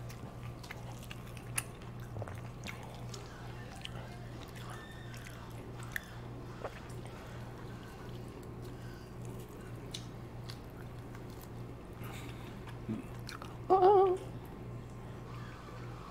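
People chewing and eating, with scattered small clicks and taps over a steady low hum. Near the end comes a short, loud wavering cry lasting about half a second.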